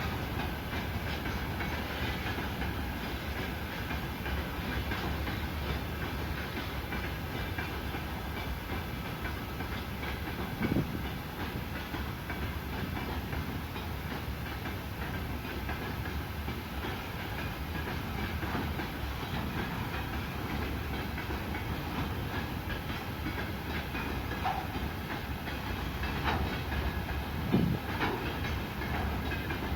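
Railway cars rolling past with a steady rumble and wheel clatter on the rails, with a couple of louder single knocks.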